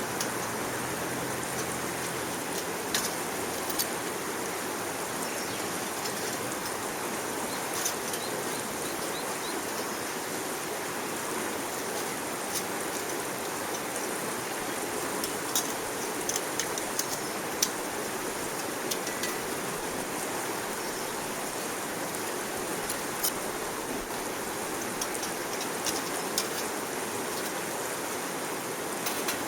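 Wood burning in a small backpacking wood stove: scattered sharp crackles and pops over a steady rushing hiss.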